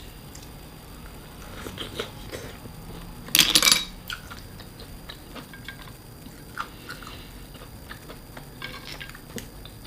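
Close-up eating sounds: scattered light clicks of cutlery and dishes with chewing, and a brief louder clatter about three and a half seconds in.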